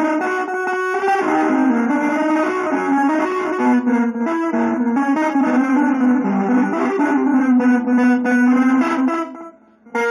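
Guitar playing fast, dense runs of notes in a jazz-fusion style, breaking off for a moment near the end before resuming.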